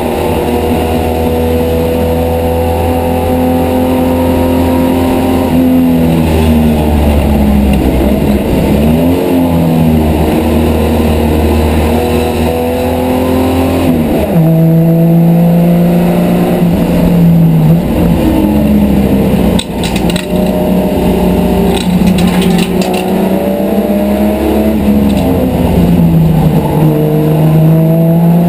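Race car engine heard from inside the cabin under hard driving. Its revs hold steady, then fall and climb again as it changes gear, with a sharp drop about fourteen seconds in and another near the end. A few brief knocks sound around twenty seconds in.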